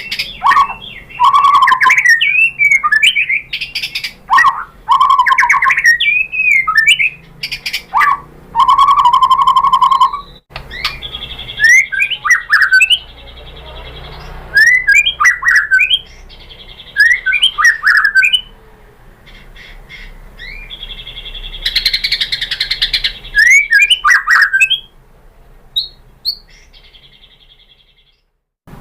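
White-rumped shama (murai batu) singing: loud, varied whistled phrases of rising and falling notes, separated by short pauses, with a sharp break about ten seconds in and quieter phrases near the end.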